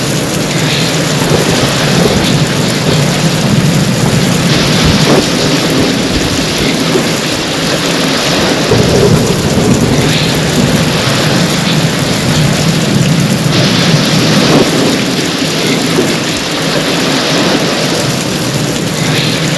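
Heavy rain falling steadily in a thunderstorm, with thunder rumbling underneath.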